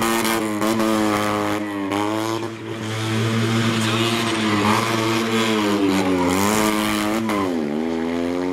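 Fiat 126p rally car's air-cooled two-cylinder engine revving hard at high revs while cornering, its note falling and climbing back again a few times as the throttle is lifted and reapplied, most sharply near the end.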